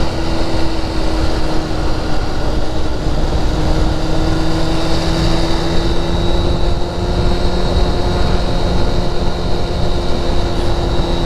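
Steady highway cruising noise from the vehicle: engine drone with a constant hum and dense road and wind noise, unchanging throughout.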